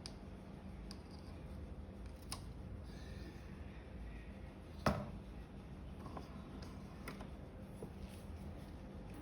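Faint sharpening strokes of a paring knife blade on an ultra-fine grit, with a few light clicks and taps, the sharpest about five seconds in.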